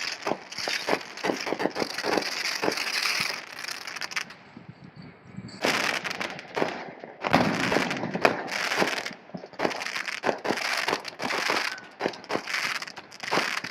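Fireworks crackling: a dense stream of rapid pops and sputters, with a short lull about four seconds in and another about seven seconds in.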